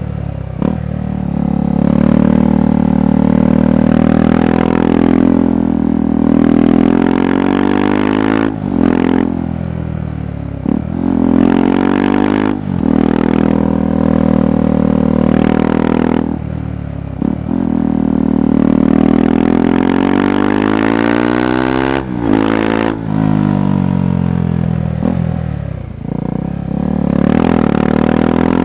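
KTM 390 Adventure's single-cylinder engine and exhaust under way, the revs repeatedly climbing and falling back as the bike accelerates and slows, with several short sharp breaks in the note.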